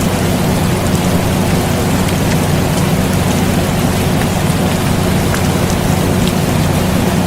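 Steady rain falling, mixed with the constant hum and rush of an air conditioner running. A low, even drone sits beneath the rain noise, with faint drop ticks scattered through it.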